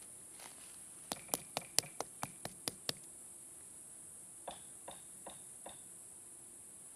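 Eight sharp knocks in quick succession, about four a second, then four fainter knocks a little more slowly, over a steady faint hiss.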